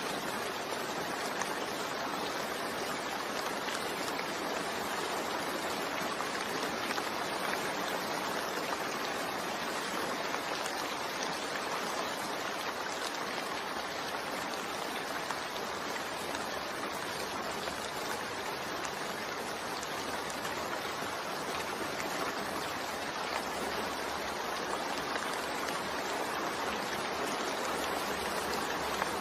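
Steady, continuous rainfall blended with white noise: an even hiss of rain with fine patter of drops.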